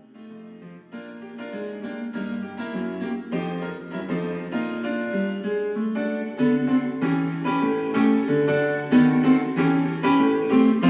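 Ragtime-style piano music, with quick repeated notes, growing louder over the first few seconds.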